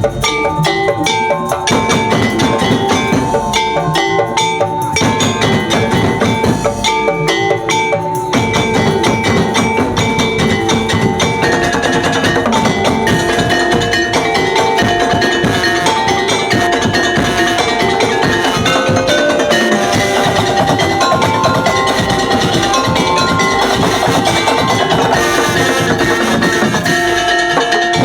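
Music played by an ensemble of tuned mallet percussion and drums, with many fast struck notes ringing over a steady beat. The playing grows fuller and denser about eight seconds in.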